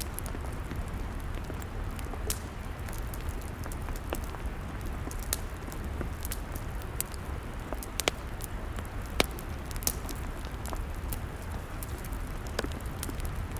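Log fire burning, with irregular sharp crackles and pops over a steady low rumble of the flames.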